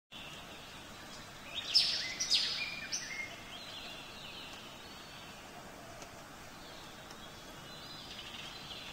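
Birds chirping over a steady faint hiss of outdoor ambience, with a cluster of short, bright calls about one and a half to three seconds in and fainter calls near the end.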